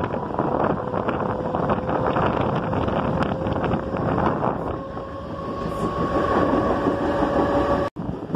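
Mumbai suburban electric train running at speed, heard from on board at an open door or window: steady rumble of wheels on rail with wind buffeting the microphone, and a faint whine that rises slightly in pitch in the second half. The sound breaks off for an instant near the end.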